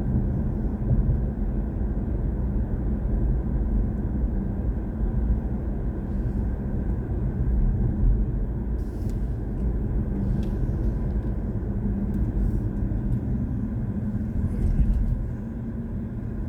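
Steady road and tyre rumble of a BMW i4 M50 driving at speed, heard from inside the cabin; the car is electric, so there is no engine note, only a low, even rumble.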